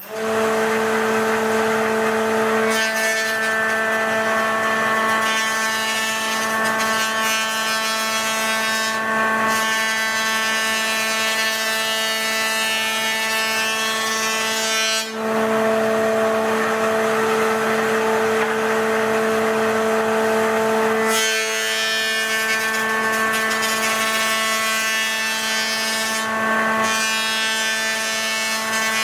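Electric wood planer running with a steady whine while mahogany boards are planed down to thickness. The sound turns harsher and noisier for two long stretches, from about three seconds in to about fifteen, and again for about five seconds after twenty.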